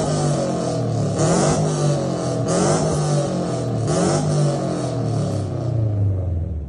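Honda Civic's engine revved through its exhaust in three blips about a second and a half apart, the pitch falling back between them and settling lower near the end.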